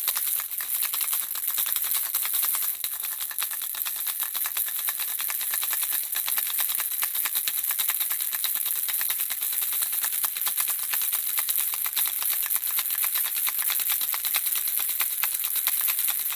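Handheld baby rattle shaken continuously: a dense, fast patter of small beads clicking inside, high and light, steady throughout.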